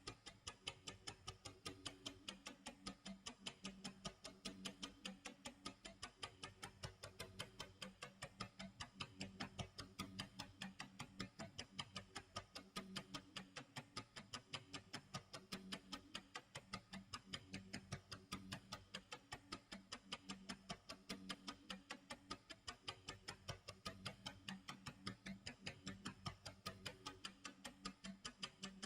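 Clock tick-tock sound effect: quiet, rapid, evenly spaced ticks repeating without a break, over a faint low hum.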